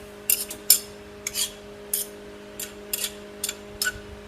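Stringy steel chips being pulled from a running metal lathe with a homemade chip puller: about eight short, irregular metallic scrapes and clinks over the lathe's steady hum.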